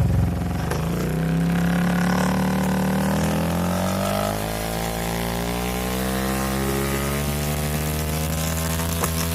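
KTM RC 390's single-cylinder engine running through an aftermarket IXIL exhaust, held at low revs. It is blipped gently, so the note shifts a little in pitch over the first few seconds, then it holds a steady note.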